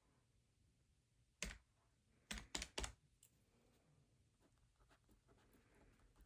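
Keys pressed at a desk: one sharp click, then three more in quick succession about a second later, with faint small ticks and rustling around them in a quiet room.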